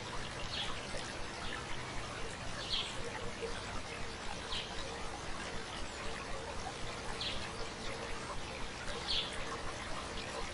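Stream babbling steadily, with a bird repeating a short, high chirp about every two seconds over it.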